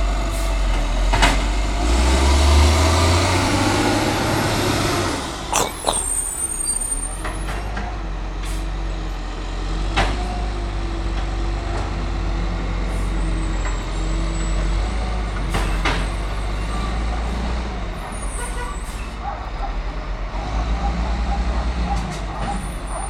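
Garbage truck engine running steadily, revving up briefly a couple of seconds in. Several short, sharp hisses of air brakes cut in over it.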